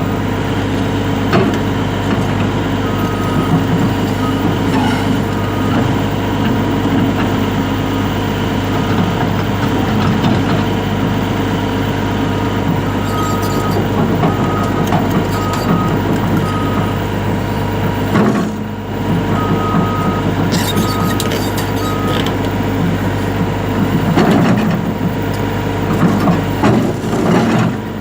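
Caterpillar 352F excavator's diesel engine running steadily. A warning alarm sounds in several runs of short, evenly spaced beeps, about two a second. A few knocks come through, mostly near the end.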